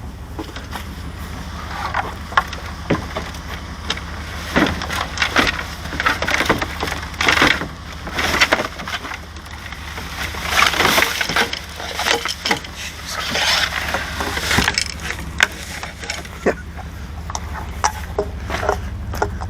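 Irregular clattering, knocks and rustling of discarded household objects being handled and shifted while someone rummages through a pile, over a steady low engine hum.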